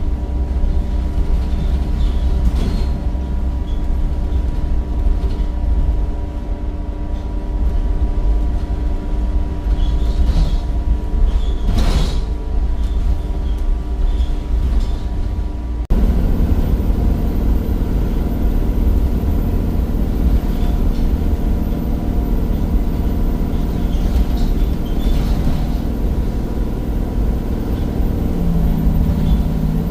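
Temsa Avenue bus with a replacement Cummins diesel engine and ZF gearbox, running on the road: a steady engine drone over a heavy low rumble. Near the end a higher engine note comes in.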